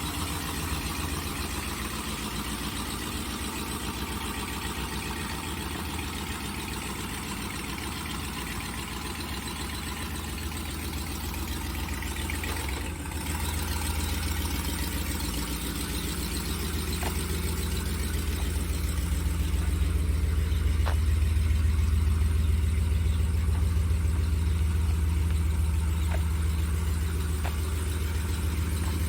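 2019 Ram 1500 pickup's engine idling steadily, with a low, even hum that grows a little louder in the second half. A few faint light ticks sound over it.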